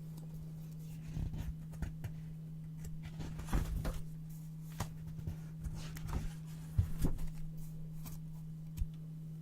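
Brown paper being handled and cut with scissors: scattered crinkles and snips, busiest about three and a half and seven seconds in, over a steady low hum.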